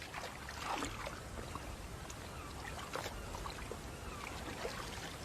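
Water trickling and splashing lightly as small fish are scooped out of a net, with scattered small splashes, a stronger one about a second in and another about three seconds in.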